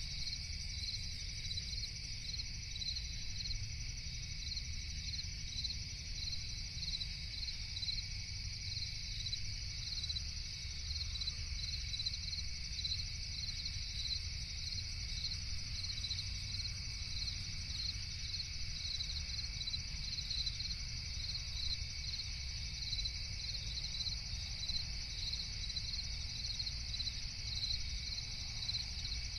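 Crickets chirping in a steady chorus with an even pulse of about two chirps a second, over a low steady rumble.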